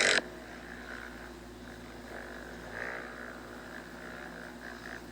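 Faint, steady drone of motocross dirt bikes running around the track at a distance.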